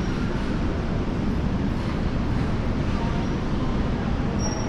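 Bucharest metro train running, heard from inside the carriage as a steady, even rumble.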